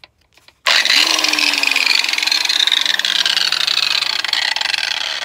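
Electric grinder starting abruptly just under a second in and grinding on steel rivets, a loud gritty grinding noise whose motor note sinks steadily as the tool is pressed into the work.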